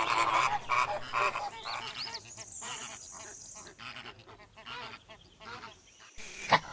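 Flamingos honking: many short goose-like calls overlapping, loudest in the first two seconds, then quieter and more scattered.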